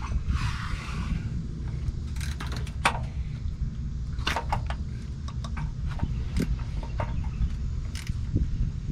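Hand tools clinking and clicking, irregular and a dozen or so times, as a socket and wrench are handled under the truck, over a steady low rumble.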